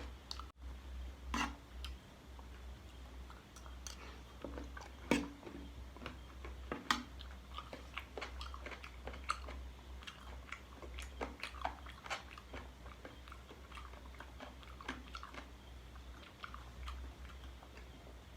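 Close-up chewing and biting of spicy chicken-feet salad: irregular wet clicks and crunches of the skin and cartilage being chewed, with a few louder bites.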